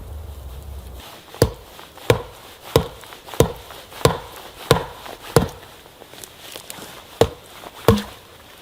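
A blade chopping into wood with steady strokes: nine sharp strikes about two-thirds of a second apart, with a short pause before the last two.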